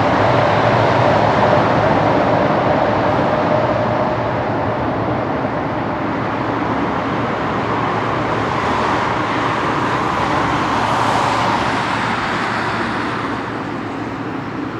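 Jet engines of a FedEx Boeing 777F freighter (GE90 turbofans) running at high power as a steady noise that slowly fades, easing off further near the end as the aircraft moves away.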